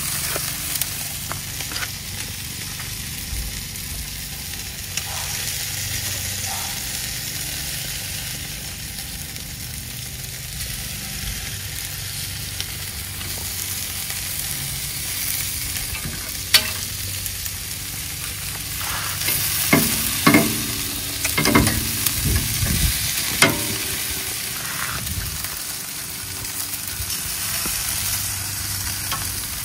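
Food sizzling steadily as it cooks, with a few sharp knocks of a cooking utensil against the cookware: one about halfway through and a quick cluster a few seconds later.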